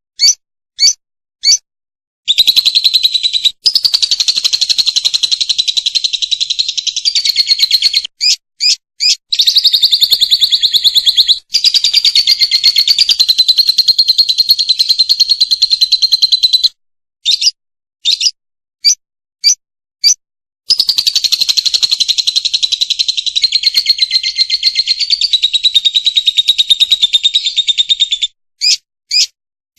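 Lovebird singing in long, fast chattering trills of several seconds each, broken by short single chirps.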